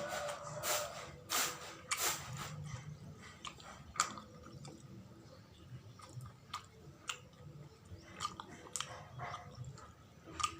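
Close-miked chewing of sawella, a sticky sweet of glutinous rice, coconut and palm sugar. Strong, even chewing strokes come about every two-thirds of a second for the first couple of seconds, then give way to softer, scattered mouth clicks and smacks.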